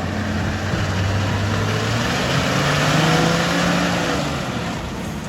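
Toyota Landcruiser 4WD engine revving up under load while climbing an obstacle, its pitch rising to a peak about three seconds in and then easing off, over a steady rush of noise.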